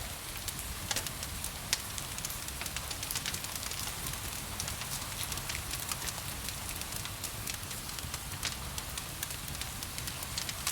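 Wood fire crackling, with irregular sharp pops and snaps, over a steady hiss of gentle rain and a low rumble.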